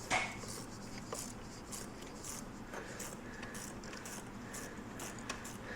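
One sharp knock at the start, then faint scattered clicks and scrapes of hand tools and parts being worked on a tight, long-fitted component in a car's engine bay.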